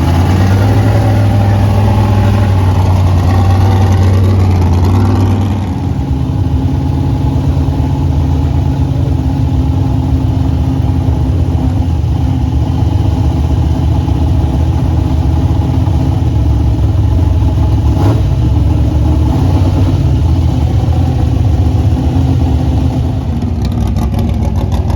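Dirt modified race car's engine running at low, steady speed, a little louder for the first five seconds or so before settling to an even note.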